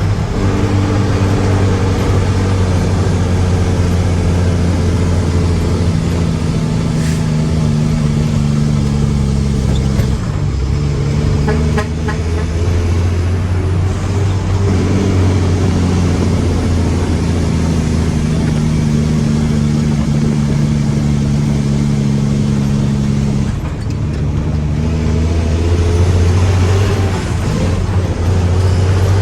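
Mack truck's diesel engine running hard, its pitch sinking slowly for several seconds and then breaking off and picking up again, twice.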